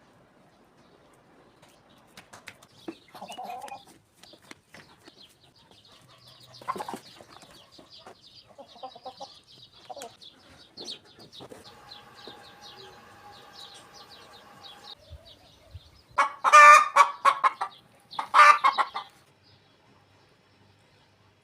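Chickens clucking among scattered small ticks and clicks. Two loud calls come near the end.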